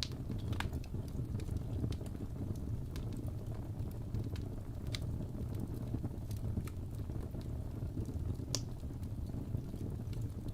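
Wood fire burning in a fireplace: a steady low rumble of the flames with scattered sharp crackles and pops, one louder pop near the end.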